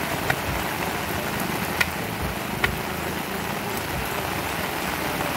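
Rain falling steadily, with three sharp taps standing out in the first three seconds.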